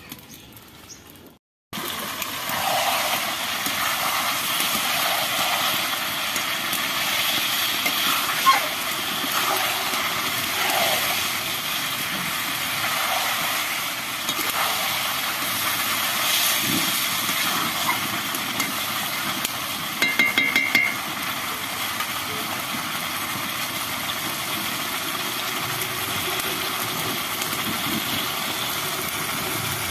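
Marinated chicken sizzling in hot oil in a kadai as it is fried down with a spatula, a loud steady hiss. A short run of ticks about two-thirds of the way through.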